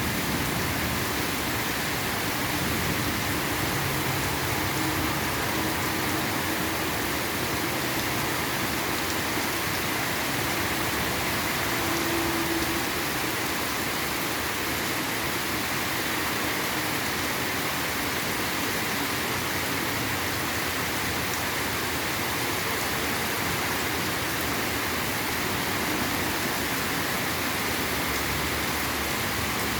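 Steady heavy rain falling, an even continuous hiss with no pauses or changes.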